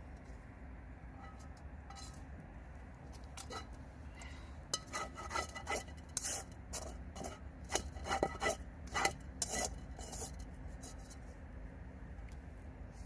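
Eating utensils clinking and scraping against cookware, a run of light clinks that come thickest from about five to ten seconds in.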